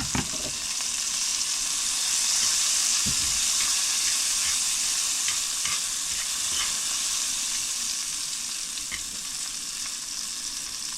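Cicadas frying in hot grease: a steady sizzle that swells to its loudest a couple of seconds in, then slowly eases, with scattered small pops and a few sharp clicks right at the start.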